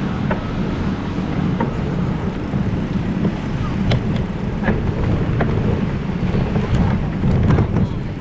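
Wind buffeting the microphone of a camera on a moving bicycle, a steady low rumble that swells and dips, with scattered light clicks and knocks from the ride.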